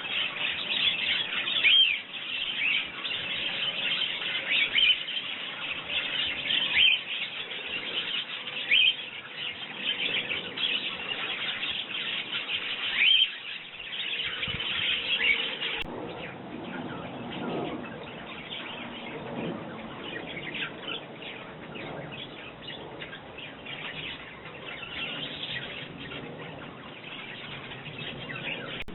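Sparrows chirping busily in many short, overlapping chirps; the chirping grows fainter about halfway through.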